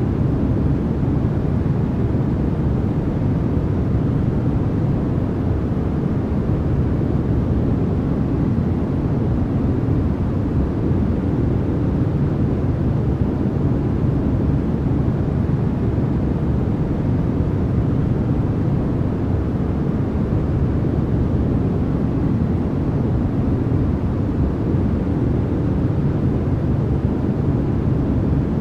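Steady noise track sold as white noise for sleep: an even, unchanging rush, deep rather than hissy.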